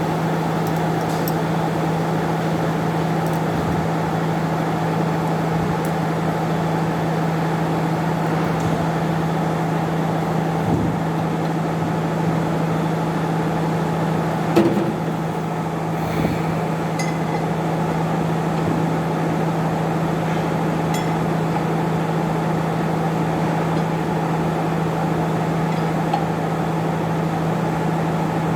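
Steady machine hum with one constant low tone, with a few light clinks and a short knock about halfway through.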